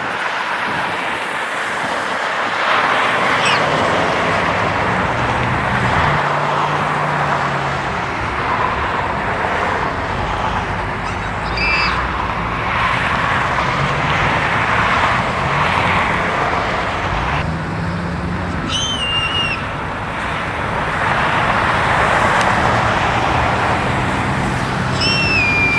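Steady road traffic noise: passing vehicles and engines. Three short high-pitched tones rise out of it about halfway in, about three quarters in and near the end, the last one held steady.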